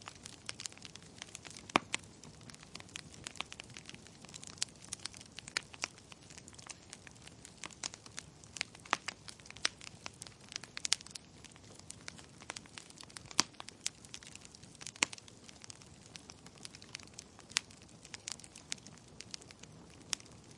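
Wood logs burning in a fireplace: irregular crackles and sharp pops over a low steady hiss of the flames.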